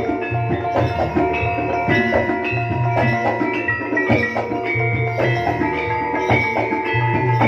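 Live Jaranan gamelan music: rhythmic drum strokes under ringing, struck metal gong-chime and metallophone notes.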